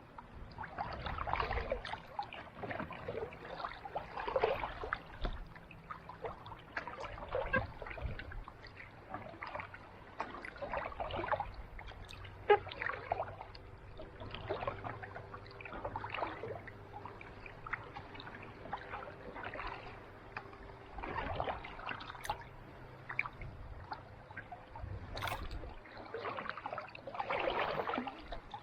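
Kayak paddle blades dipping and pulling through calm sea water, one swishing stroke every second or two, with trickles and drips between strokes.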